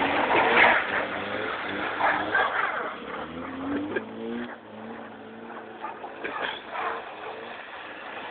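Fiat Bravo's engine revving as the car drifts on ice, its pitch rising and falling. It is loudest in the first second or two and fades after about four seconds.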